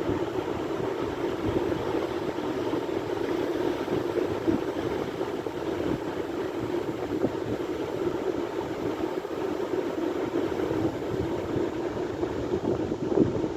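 Sea surf washing steadily, a continuous rumble of waves.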